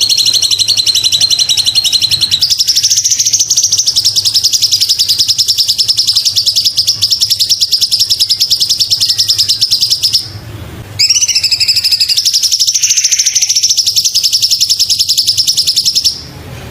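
Cucak cungkok singing a long, loud, high-pitched trill of rapidly repeated notes. The trill steps up in pitch a couple of seconds in, breaks off briefly about ten seconds in, then starts again.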